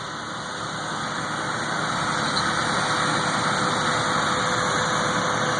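Engine of a bucket truck running steadily, growing gradually louder over the first couple of seconds.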